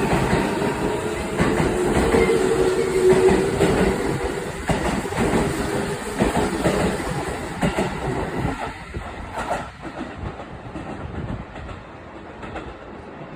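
JR Central 315 series and 313 series electric multiple units pulling out of the station. Wheels clack over the rail joints, and a steady electric motor whine runs through the first half. The train grows fainter as it moves away.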